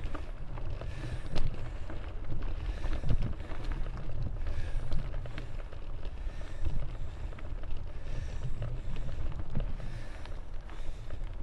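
Wind buffeting an action camera's microphone on a bicycle riding a dirt trail, a low rumble with irregular swells. Scattered small knocks and rattles of the bike over rough ground run through it.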